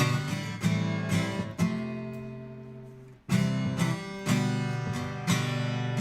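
Acoustic guitar strumming chords. About one and a half seconds in, a chord is left ringing and fading out; just past halfway, the strumming picks up again.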